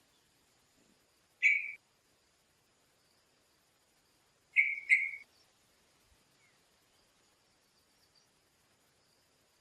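A bird giving three short calls: one about a second and a half in, then two in quick succession about three seconds later.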